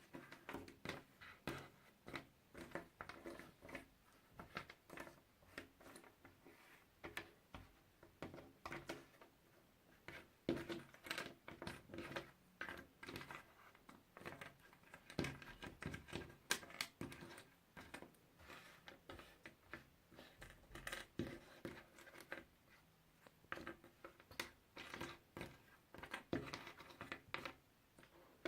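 Puzzle pieces being handled and fitted together: a steady stream of small, irregular clicks and taps, several a second.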